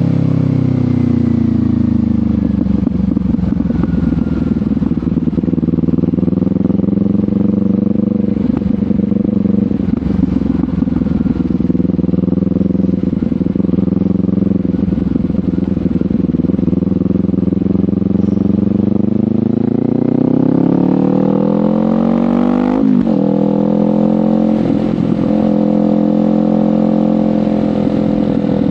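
Kawasaki Ninja 500 parallel-twin engine through a LeoVince GP Corsa Evo exhaust while riding. The note falls off at the start as the throttle closes, then holds steady for a long stretch. Late on it climbs under acceleration, drops sharply at a gear change and settles back to a steady cruise.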